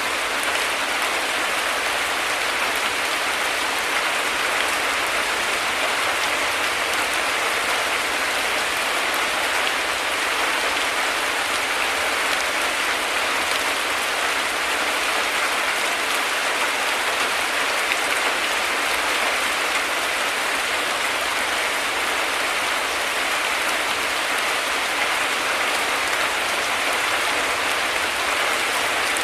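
Heavy rain falling steadily, an even hiss without letup.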